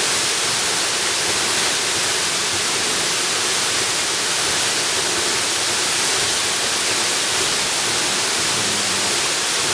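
Waterfall: water pouring and splashing in a steady, even rush, its hiss strongest in the higher tones.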